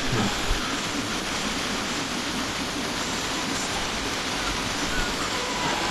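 Steady rushing of wind over the camera microphone while riding an e-bike, with no break or change.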